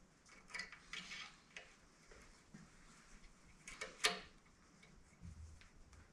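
A few light metallic clinks and taps of small metal tools and parts being handled on a workbench, the loudest about four seconds in.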